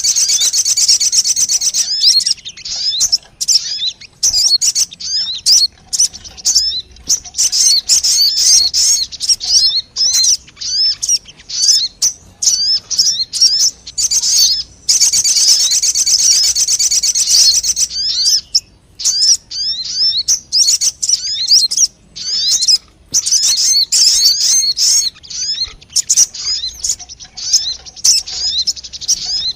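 Bird-lure recording of a sogon bird calling: loud, high-pitched chirps repeated very rapidly in dense runs lasting several seconds, with brief pauses between runs.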